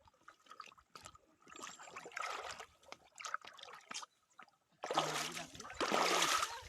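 Water splashing and sloshing as someone moves through shallow water, in irregular bursts with small clicks between; the loudest splashing comes near the end, with a brief voice mixed into it.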